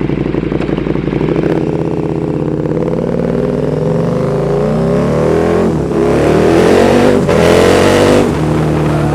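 KTM 1290 Super Duke R's 1301 cc V-twin, running with the catalytic converter box replaced by a link pipe and a Pipewerx slip-on, very loud. It runs steadily at first, then accelerates, the revs climbing and dropping back at upshifts about six and seven seconds in before settling.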